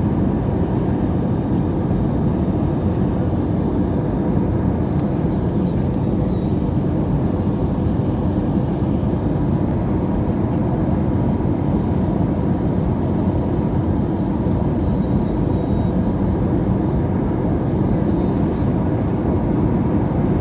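Steady cabin noise inside an Airbus A321 airliner in flight: a constant low rush of engine noise and airflow, with a faint steady hum.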